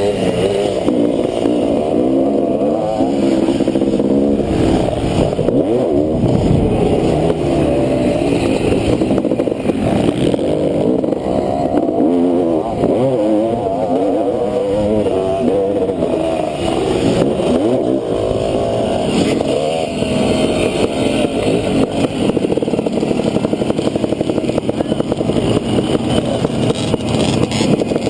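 Honda CR500 491 cc two-stroke single-cylinder motocross engine running hard, its pitch rising and falling over and over as the throttle opens and closes and the gears change around the track.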